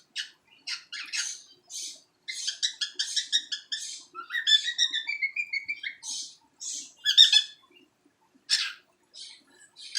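Baby cockatiel chattering: a quick run of short, scratchy chirps and warbles, with a rising whistle about four to six seconds in, then a few separate chirps after a short pause near the end.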